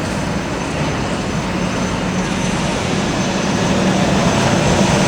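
A heritage electric tram running on the tracks: a steady drone from its motors and wheels with a low hum, growing slowly louder as it comes closer.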